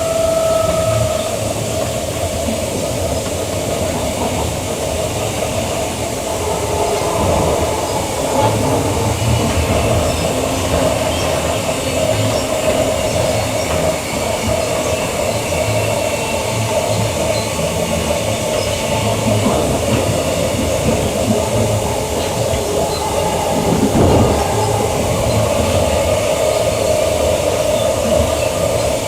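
Queensland Rail EMU electric train running along the line: steady rolling noise from wheels on rails with a shifting whine, briefly louder about 24 seconds in.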